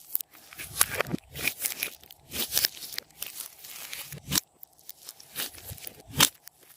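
Slime being worked by hand, making crackling, popping clicks in irregular clusters.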